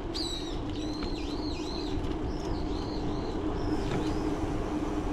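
A songbird calling a quick series of swooping, whistled chirps, in several short phrases over the first four seconds. Underneath is the steady low rumble and hum of the bicycle rolling along the pavement.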